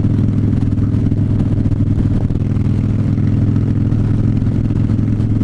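Harley-Davidson V-twin motorcycle engine running at a steady cruising speed, heard from the rider's seat through a helmet camera, with no change in engine pitch.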